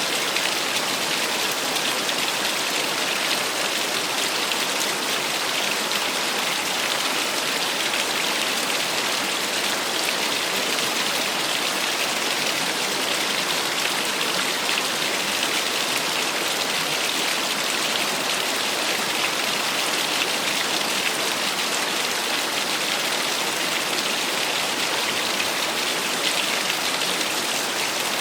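Small waterfall splashing and gurgling, a steady unbroken rush of water.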